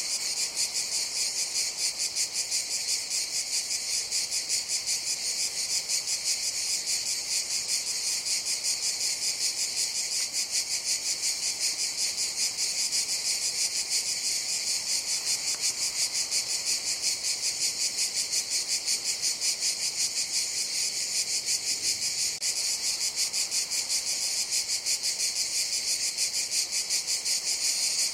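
Cicadas buzzing in a steady, unbroken chorus, high-pitched, with a fast and even pulsing.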